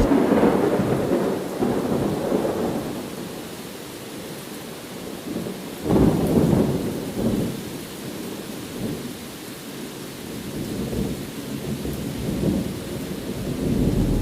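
Steady rain with rumbling thunder: one rumble fading away at the start, and a louder one breaking about six seconds in and slowly dying away.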